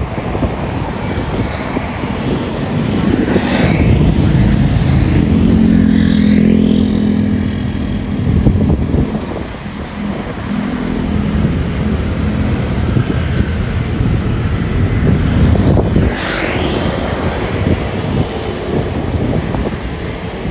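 Vehicle engine rumble with wind noise, swelling loudest a few seconds in as something passes close, then easing off, with another brief pass near the end.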